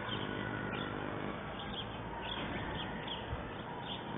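Bird chirps repeating every half second or so over a steady background hum and hiss, with no blast or sudden impact.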